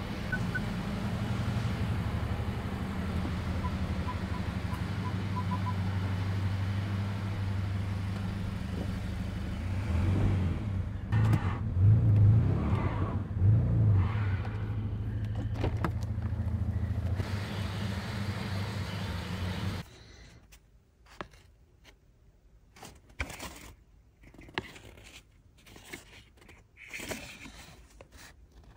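BMW E92 320i's four-cylinder petrol engine running steadily, then surging louder several times, unevenly, about ten to sixteen seconds in as the car pulls away; the engine is running with leaking injectors and a misfire. About twenty seconds in it gives way to quiet small clicks and rustles of an injector and paper towel being handled.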